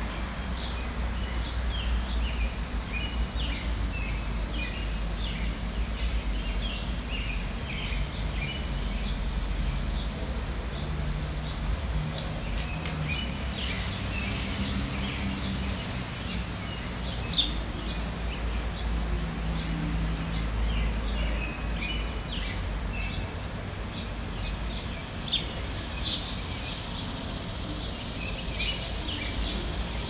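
Backyard ambience: small songbirds chirping over and over above a steady low rumble, with a sharp click about 17 seconds in and another near 25 seconds.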